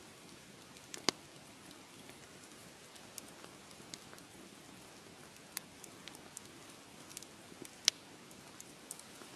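Wood fire crackling: a soft steady hiss with scattered sharp pops and snaps, the two loudest about a second in and again near the end.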